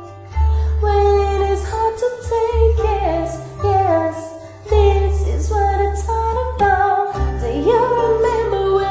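Live pop-song performance: a band with steady bass notes, with a voice singing the melody over it.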